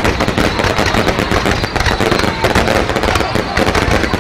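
Fireworks display: a dense, unbroken run of rapid cracks and bangs from fireworks going off one after another.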